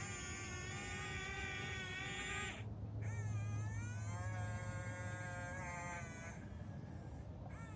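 Toy excavator's electric motor whining. It cuts out twice and starts again, its pitch bending as it spins back up each time.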